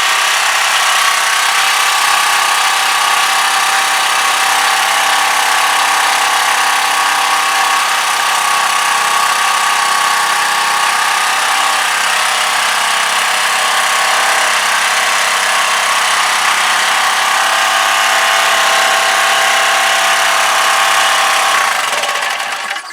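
Clarke pressure washer's small four-stroke side-shaft engine running steadily, driving a pump that is pulling up no water: the pump is dead, which the owner takes to be why the washer was thrown out. The engine cuts out near the end.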